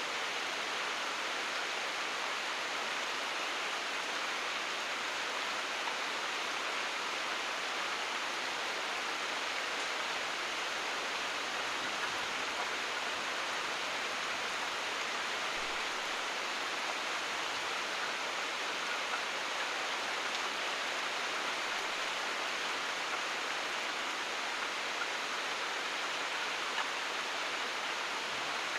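Rain falling steadily: an even hiss with no thunder.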